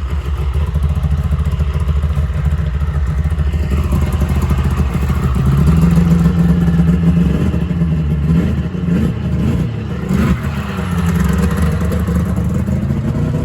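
Small engine running under throttle, its pitch climbing a few seconds in, wavering up and down through the middle, then rising again.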